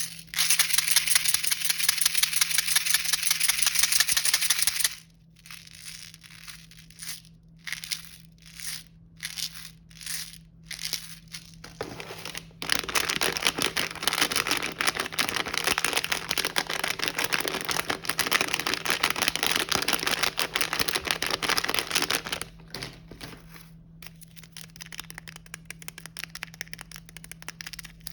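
Snack packaging crinkling and rustling as it is handled: two long loud stretches of dense crinkling, the second starting about twelve seconds in, with short separate crinkles between them and softer crackling near the end.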